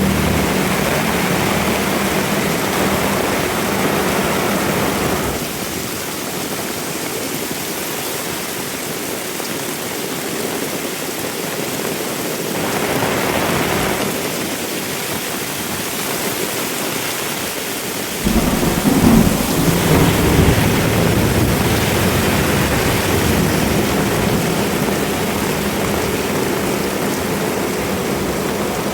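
Heavy rain falling steadily. A deep low rumble comes in strongly about 18 seconds in and stays, making it louder.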